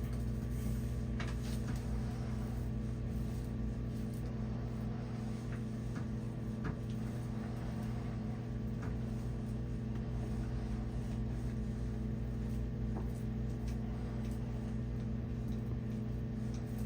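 A steady low mechanical hum, with a few faint light clicks and taps.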